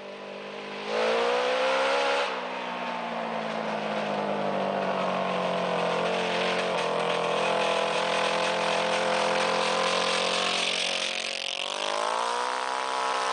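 Yamaha motorcycle engine of a home-built racing lawn mower running under way: the revs climb about a second in and drop back after two seconds, hold steady, then climb again near the end.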